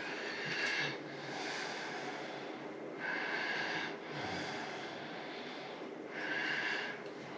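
A person breathing close to the microphone, one breath about every three seconds over a faint steady hiss.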